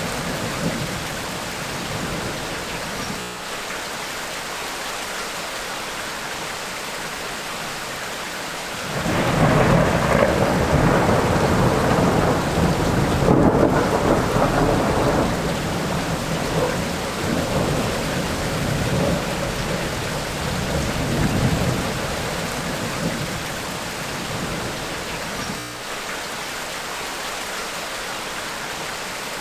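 Steady heavy tropical rain, with a long rolling thunder rumble that breaks about a third of the way in, stays loud for several seconds, then slowly dies away under the rain.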